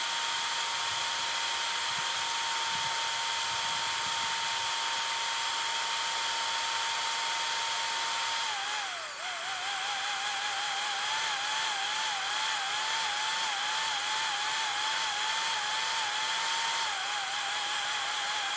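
Electric power tool motor running at a steady speed, then dipping in pitch a little past halfway and wavering rapidly as it is put under load against the work, with a hissy high edge throughout.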